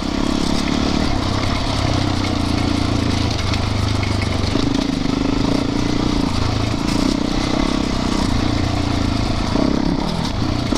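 Yamaha YZ450FX's single-cylinder four-stroke engine running at steady riding revs, its pitch easing and picking up a few times, over a constant rush of riding noise.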